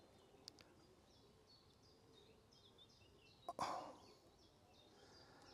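Faint bird song: a series of short, high chirps repeating through most of the stretch. A single brief sudden noise cuts in about three and a half seconds in.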